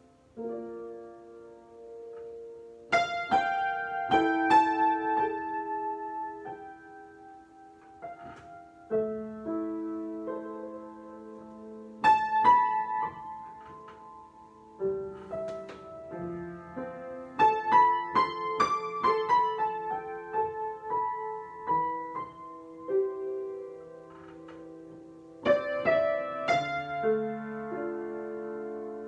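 Solo piano improvisation: slow, sustained chords with a melody above, each group of notes struck and left to ring and fade before the next.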